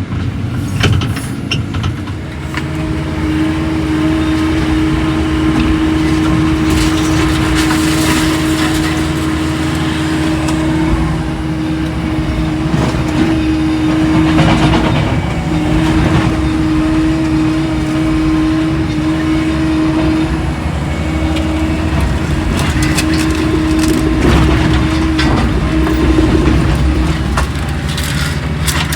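Diesel engine of heavy equipment running steadily under load, with debris crunching and cracking at times.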